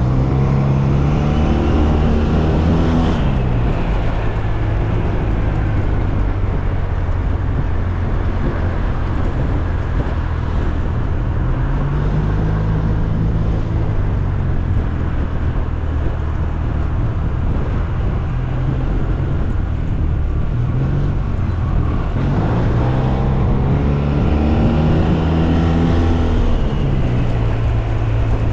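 SYM Maxsym TL 508 maxi-scooter's 508 cc parallel-twin engine under way, its revs rising and falling a few times, over steady wind and road noise.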